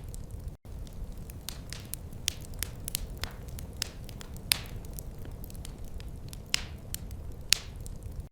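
Wood fire crackling in a fireplace: irregular sharp pops and snaps, a few louder than the rest, over a steady low rumble of the flames. The sound cuts out for an instant about half a second in.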